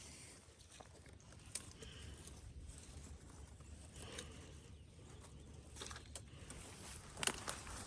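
Footsteps crunching through dry leaf litter, irregular and a little louder near the end, over a low rumble of wind on the microphone.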